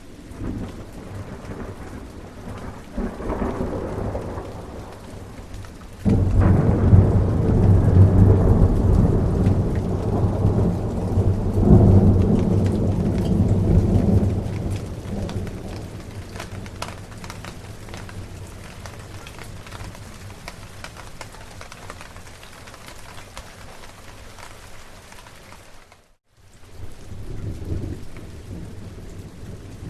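Steady rain with thunder. A low rumble builds a few seconds in, then a loud roll of thunder breaks in suddenly about six seconds in, rumbles for several seconds and fades away. Near the end the sound drops out briefly, then more thunder rumbles over the rain.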